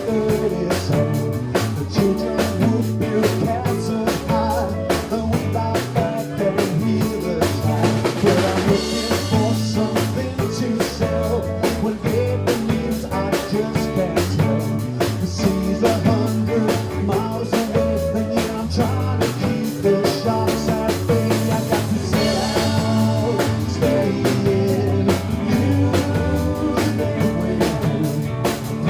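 Live rock band playing, with a drum kit keeping a steady beat under a moving bass line.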